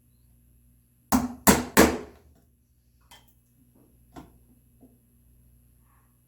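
Three quick, loud mallet blows on a 1/2-inch chisel chopping an angled mortise in red oak, about a second in, followed by a few light knocks and taps.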